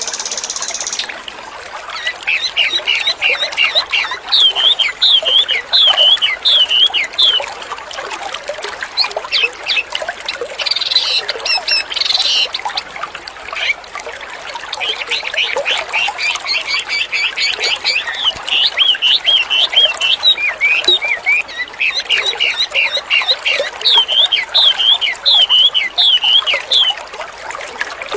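A songbird singing fast, repeated chirping phrases and trills, over steadily trickling water.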